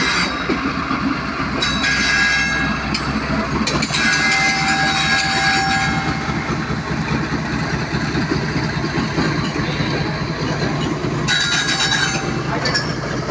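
Freight train rolling past with a steady, loud rumble and clatter of wagons, broken several times by short high-pitched tones.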